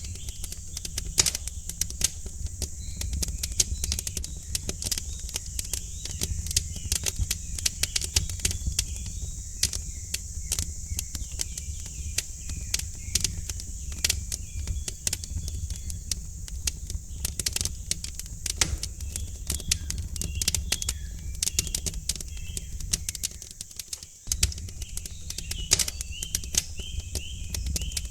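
Wood fire crackling, with many irregular pops and snaps over a low rumble and a steady hiss. Faint birdsong chirps through it. The low rumble drops out briefly about 24 seconds in.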